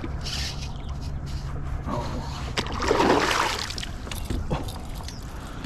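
A water splash at the surface about three seconds in, the loudest sound here, with a few sharp knocks before and after it.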